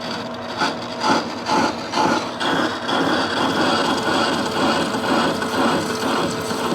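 Metal lathe taking a facing cut on a pipe flange: the tool scrapes and grinds against the face over the lathe's hum, in uneven surges for the first couple of seconds, then as a steady cut.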